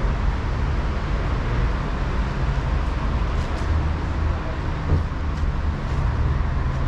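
Steady city street traffic: engine rumble and road noise from passing vehicles, with a single brief thump about five seconds in.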